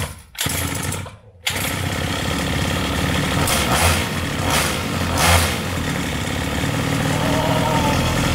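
Small 49cc two-stroke pocket-bike engine being pull-started by its recoil starter: after a couple of short bursts and a brief drop, it catches about a second and a half in and keeps running, with several louder throttle blips partway through. This is the first start of a freshly assembled tuned engine, expected to be hard to start.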